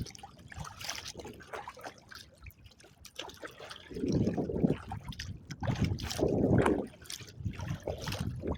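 Water splashing and sloshing around a kayak, coming in surges every second or two, loudest about four and six seconds in after a quieter start.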